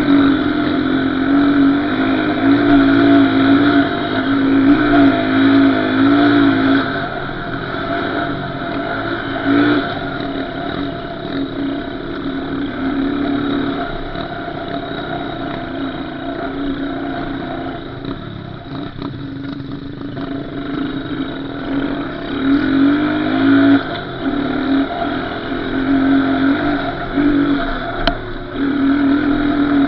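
Small off-road vehicle engine running under throttle, its pitch rising and falling as it revs up and eases off, quieter for a few seconds in the middle and then revving hard again.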